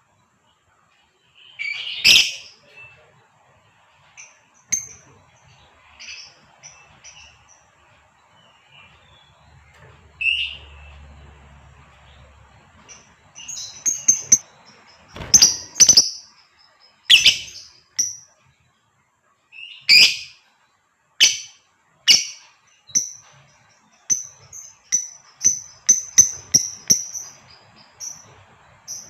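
Female lovebird calling in sharp, high chirps. The calls are spaced out at first and come in quick runs near the end. These are the calls used to draw male lovebirds into long trilling song.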